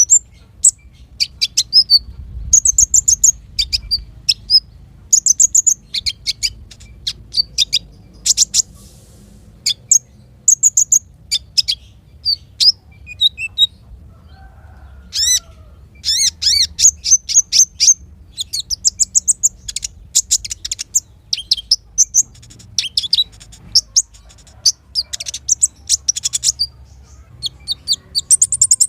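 Small songbirds singing in rapid, high-pitched chirping phrases, broken by short pauses, with a longer unbroken run of chirps around the middle.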